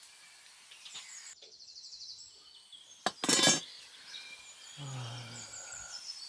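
Birds chirping in the background, with one short sharp clink or clatter about three seconds in.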